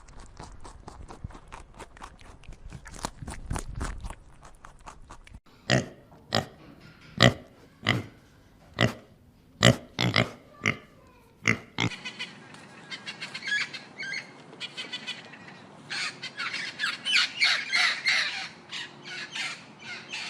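Animal calls in separate clips: a faint stretch, then short sharp calls repeated about once or twice a second, then dense high-pitched chirping.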